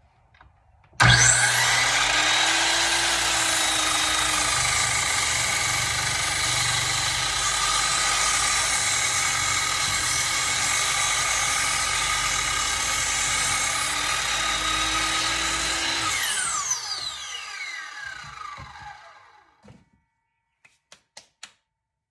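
Electric miter saw running and cutting wood for about fifteen seconds, then switched off, its whine falling as the blade coasts to a stop. A few light clicks and knocks come near the end.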